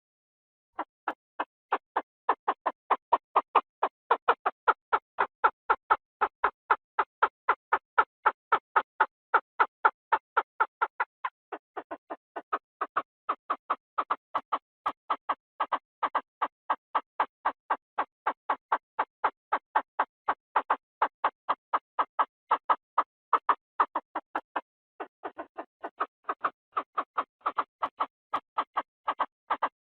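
Chinese francolin (นกกระทาทุ่ง) call played as a decoy recording: a long, even run of short clipped notes, about four a second, with two brief breaks.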